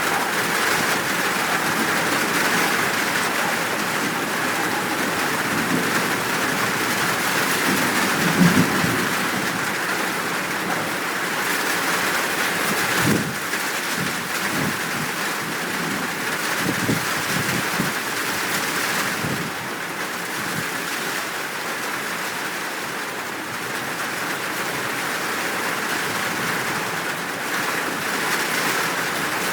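Steady heavy rain with thunder rumbling several times, loudest about eight seconds in, with a sharper clap around thirteen seconds.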